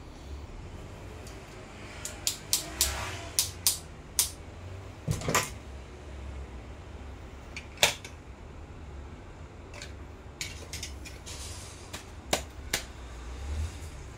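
Irregular sharp clicks and light knocks, one to a few a second and spaced unevenly, as small parts and tools are handled on a workbench. A steady low hum runs underneath.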